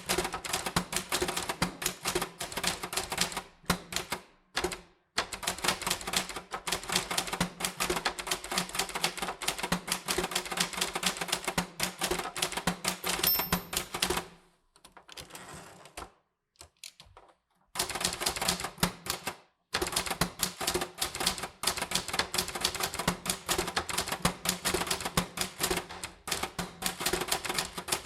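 Typewriter being typed on steadily: rapid keystroke clacks in runs, broken by a few short pauses, the longest about halfway through.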